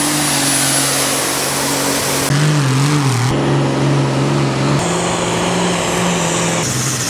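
Tractor pulling engines running hard under load, in short clips that cut abruptly from one engine note to another about four times.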